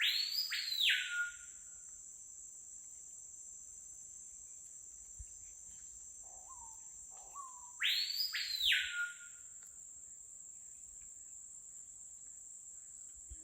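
Screaming piha (capitão-do-mato) calling twice, about eight seconds apart: each loud, ringing whistled call lasts about a second and is led in by softer, lower notes. A steady high-pitched insect drone runs underneath.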